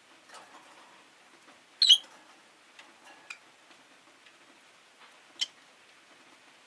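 Rosy-faced lovebirds giving a few short, sharp chirps, the loudest about two seconds in and another about five and a half seconds in, with small clicks and ticks in between.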